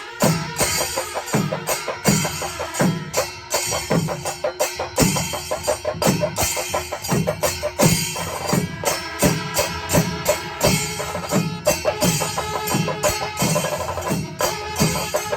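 A Kerala panchari melam ensemble playing: chenda drums beat a steady rhythm of strong strokes over continuous ilathalam cymbal clashing.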